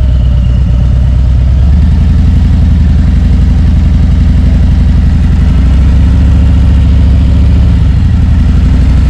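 Harley-Davidson Road Glide's V-twin engine running steadily at low road speed, a loud, pulsing low rumble with small shifts in pitch as the throttle changes.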